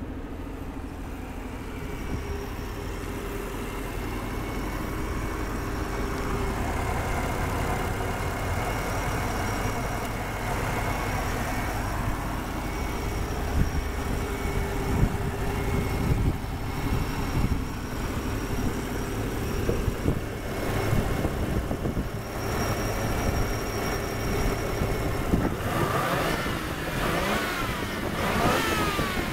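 Mazda 20B three-rotor twin-turbo rotary engine idling steadily, then blipped through a few quick revs near the end.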